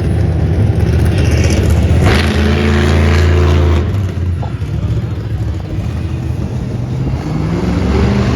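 Monster truck engine running loud and revving, its pitch rising and falling, then easing off about four seconds in before building again near the end.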